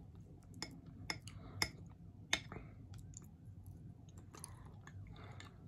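A person chewing food with small wet mouth clicks, and a few sharp clicks scattered through, quietly.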